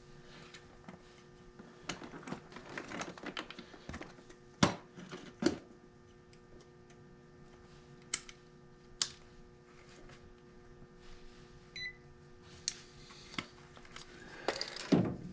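Hands working at a furnace: scattered clicks, taps and rustling of tools and meter leads being handled, with a few sharper knocks, over a steady low hum.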